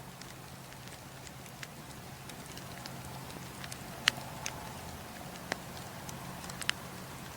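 Campfire crackling: scattered sharp pops and snaps over a steady low hiss, with the loudest pops about four, five and a half and nearly seven seconds in.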